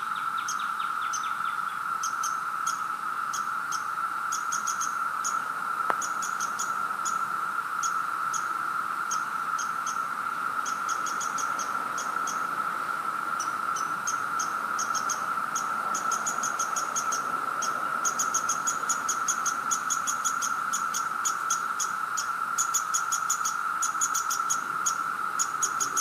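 Chorus of 17-year periodical cicadas: a steady, even drone. Over it, rapid high-pitched chirps come in quick runs and grow denser in the second half.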